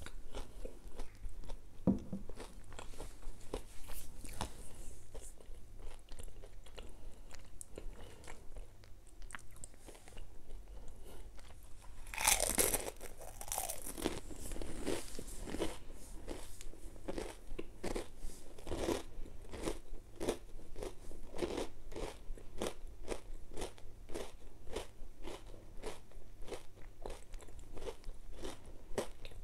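Close-miked crunchy chewing of a rolled wafer. There is a loud cluster of bites and crunches about halfway through, then a steady rhythm of crunching chews, about two a second.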